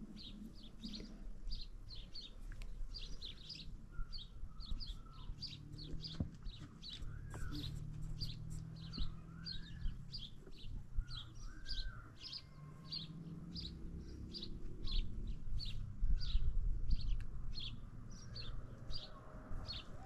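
A small bird chirping over and over, short high chirps about two or three a second, with a few lower rising-and-falling whistled notes in the middle. A low rumbling noise runs underneath and swells about three-quarters of the way through.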